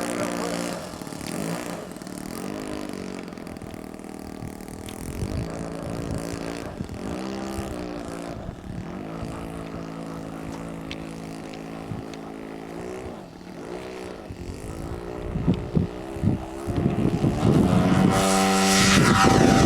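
Radio-controlled model airplane's engine and propeller running in flight, its pitch rising and falling as the plane passes and turns. It grows louder near the end as the plane comes close.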